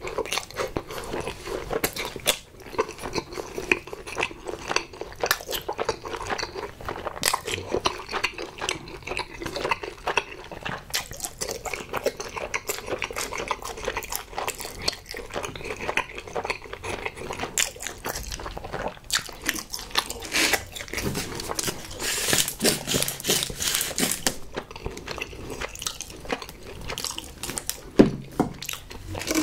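Close-miked chewing of spicy tteokbokki rice cakes, with wet mouth clicks and lip smacks. About three-quarters of the way through, a ketchup squeeze bottle sputters for a couple of seconds.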